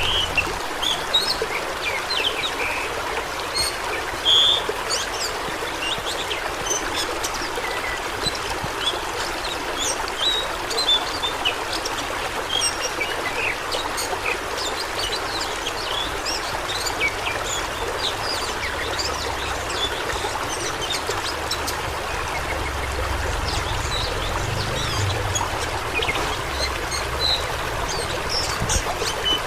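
Fast-flowing stream water rushing and babbling: a steady hiss with many small splashes and gurgles scattered through it.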